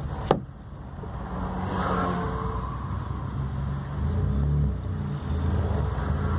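VW up! TSI's turbocharged 1.0 three-cylinder engine running as the car is driven, with a single sharp click about a third of a second in. The engine gets louder from about four seconds in as it pulls harder.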